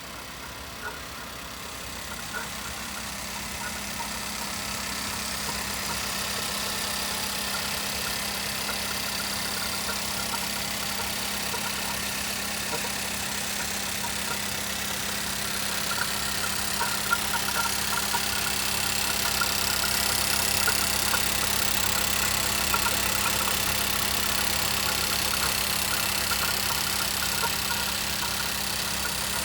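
A 2017 Nissan Rogue's engine idling with a steady hum, growing louder over the first several seconds.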